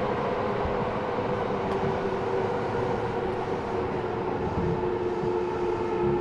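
Eidan 6000 series subway car running, heard from the car floor. Its high-pitched Mitsubishi three-level VVVF inverter, taken over from a 7000 series car, gives a steady whine over the rumble of wheels and running gear. The whine's pitch eases down slightly.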